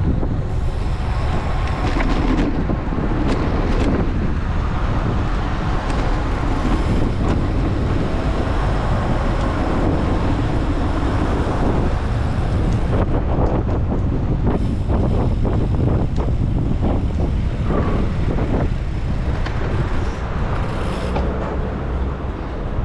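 Wind rushing over an action camera's microphone on a moving road bike, mixed with road and traffic noise. A run of small clicks or knocks comes in the middle.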